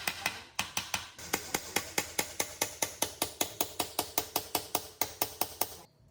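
Hammer tapping rapidly on metal, about six even strokes a second, each with a short ring. There is a brief break about half a second in.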